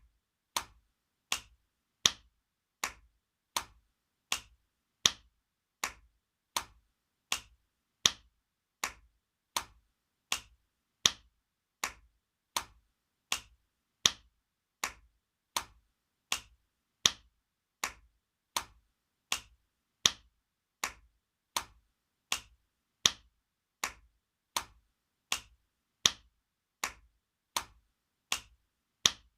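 Spanking sound effect: sharp hand slaps repeated at a steady rate, a little more than one a second, some hits louder than others.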